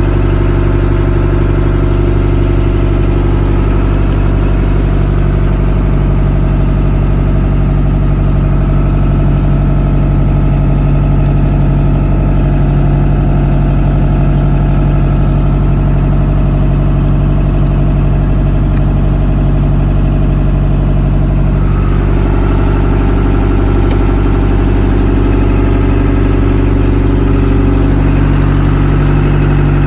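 Fishing boat's engine running steadily, with a slight change in its tone about two-thirds of the way through.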